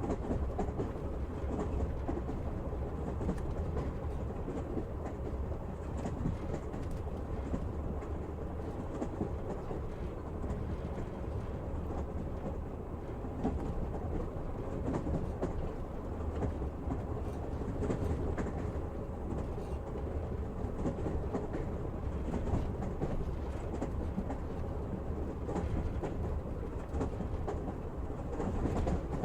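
Train running on the rails, heard from inside a carriage: a steady rumble of the wheels with scattered clicks as they pass the rail joints.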